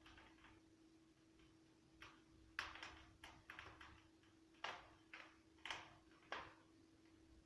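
Spruce logs crackling in a fireplace insert's firebox: a scatter of about ten sharp pops and snaps, most of them between two and six and a half seconds in, over a faint steady hum.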